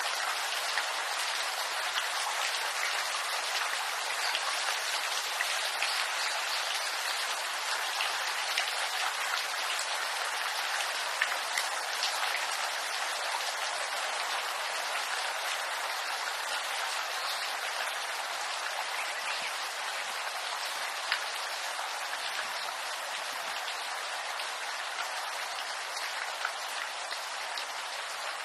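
Steady rain falling on bamboo leaves, a dense patter of many small drop hits.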